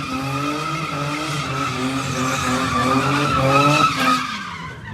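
Car engine revving hard in short repeated rising sweeps over a steady tire squeal, as the car slides and spins its tires. The engine note drops off about four seconds in.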